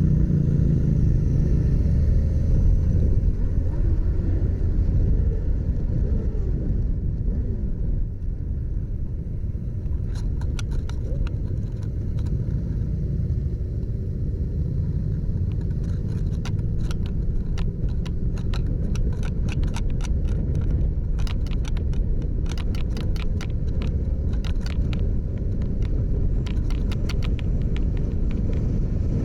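Motorcycle engine running under way, a steady low rumble whose pitch glides down at the start. From about a third of the way in, a run of sharp clicks sounds over it, thickest in the second half.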